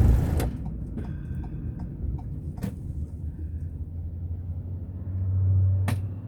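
A car being driven, its road and engine rumble heard from inside the cabin. A low hum swells to its loudest near the end.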